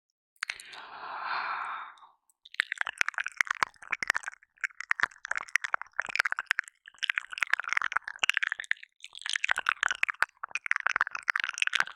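Close-miked ASMR mouth sounds: a breathy exhale about half a second in, then, from about two and a half seconds, runs of wet clicking and smacking from licking, each lasting a second or two with short gaps between.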